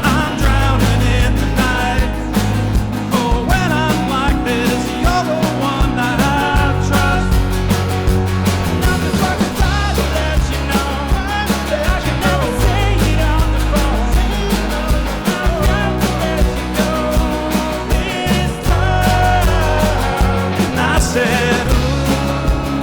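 Live rock band playing with drums, bass, guitar and singing.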